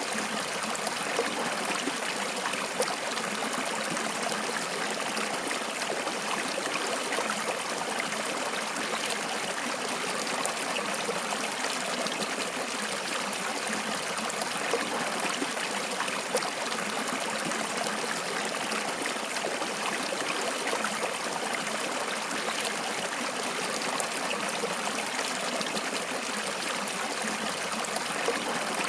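Water flowing in a stream, a steady rush with small trickling splashes throughout.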